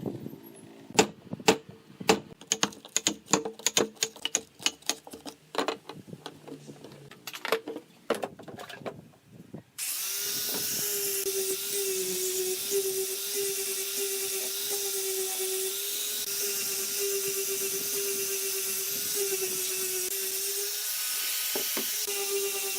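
Irregular sharp knocks and taps for about the first ten seconds, then an electric drill starts abruptly and runs steadily with a high whine, its pitch wavering slightly as it works into the bamboo.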